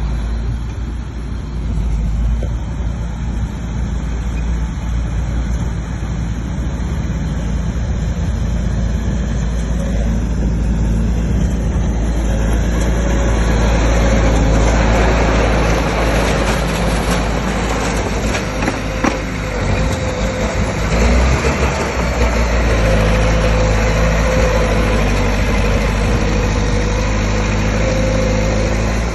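Bulldozer's diesel engine running steadily, then growing louder and harsher about twelve seconds in as it works under load, with a steady higher tone joining over the engine.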